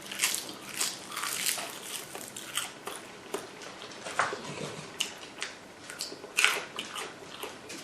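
Close-miked chewing of salmon nigiri and rice, with many short wet mouth clicks and soft crunches.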